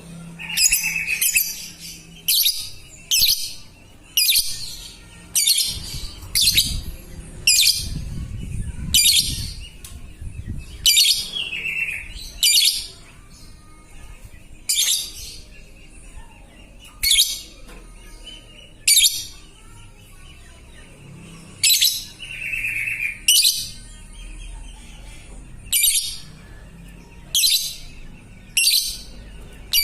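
Lovebird giving short, shrill, high calls, each sweeping down in pitch, repeated about every one to two seconds with a few longer pauses.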